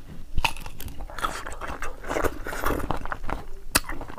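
Biting into and chewing a slice of raw green mango: a run of crisp crunches, close to the microphone.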